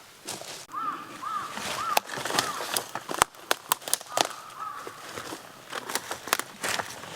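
Footsteps crunching irregularly on the ground. Behind them, a bird calls four short notes about half a second apart, then gives one brief held note.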